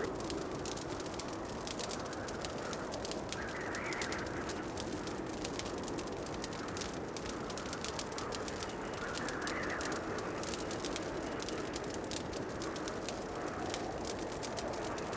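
Wood fire crackling in a fireplace: a dense, irregular run of small pops and snaps over a soft steady rush, with a gentle swell in the rush every few seconds.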